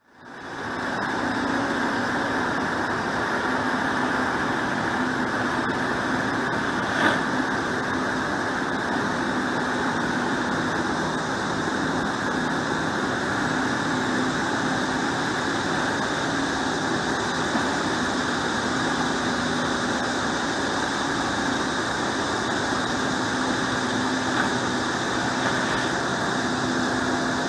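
Motor vehicle engine running steadily, a constant noise with a low hum, fading in at the start. A single short click comes about seven seconds in.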